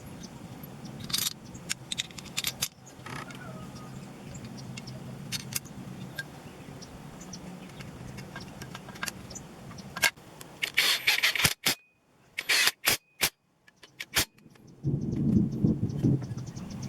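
Scattered light metallic clicks and clatter, as of parts or tools being handled, over a low steady hum. A burst of clicking comes about ten seconds in. Near the end a louder, low, pulsing engine-like rumble sets in.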